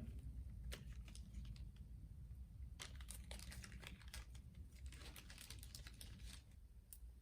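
Faint crinkling of a small plastic bag and light clicks of small plastic items being handled and dropped into it, scattered irregularly.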